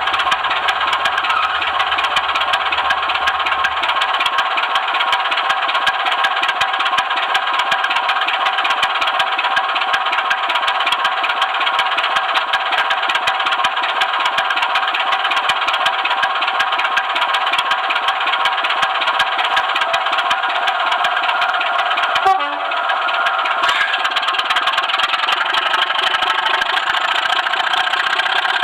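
Model train running on track, picked up by a camera truck riding the rails: a steady, dense rattling clatter of wheels and running gear that dips briefly and changes tone about three-quarters of the way through.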